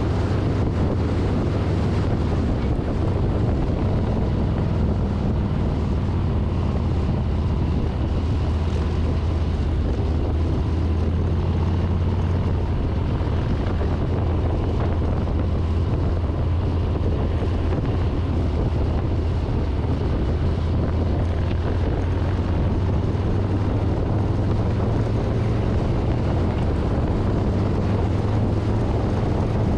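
2024 Harley-Davidson Street Bob's V-twin engine running steadily at cruising speed, with wind rushing over the handlebar-mounted microphone.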